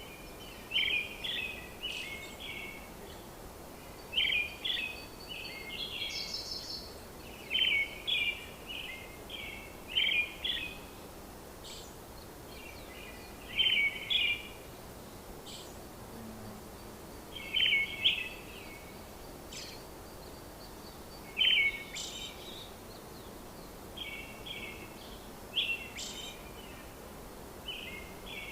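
Bird calls: short chirping phrases that come again every second or two over a steady faint outdoor hiss.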